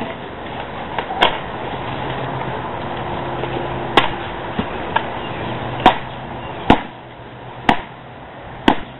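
A series of sharp knocks or smacks, six in all, spaced a second or two apart, over a steady hiss and low hum.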